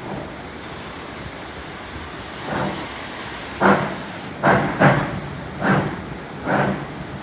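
Baldwin 2-8-0 steam locomotive starting off under load, its exhaust beginning about two and a half seconds in as separate, loud chuffs roughly one a second, over a steady rushing hiss.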